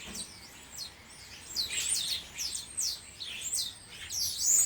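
Garden songbirds singing and calling: a run of quick, high, sharply falling notes repeated in phrases, faint at first and louder from about a second and a half in.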